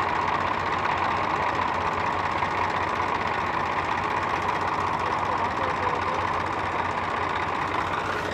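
Tractor's diesel engine running steadily, with a fast, even firing pulse.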